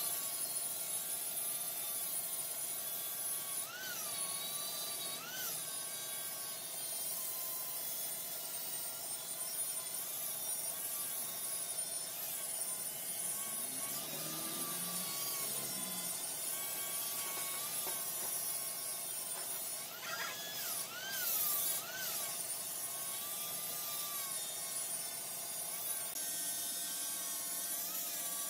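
A large wood lathe running with a turning tool cutting the spinning wood: a steady whine and cutting noise, with short rises and falls in pitch around four, five and twenty-one seconds in.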